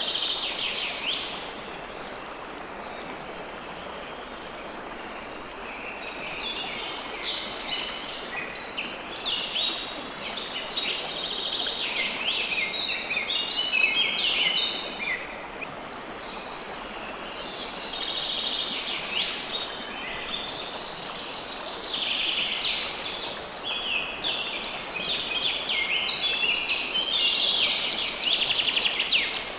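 River water flowing steadily, with songbirds chirping in quick, high bursts over it. The birds fall quiet for a few seconds shortly after the start, then sing again almost without pause.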